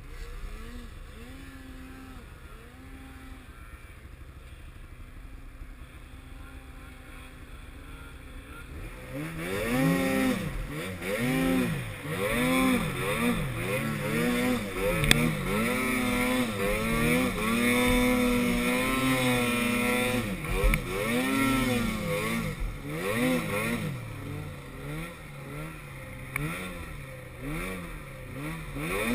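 Snowmobile engine, fairly quiet at first, then from about nine seconds in running loud with its pitch rising and falling over and over as the throttle is opened and eased off.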